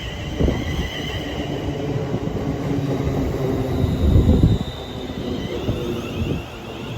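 Train moving along the track with a low rumble, its wheels squealing on the rails in high thin tones that fade after the first second and come back near the end.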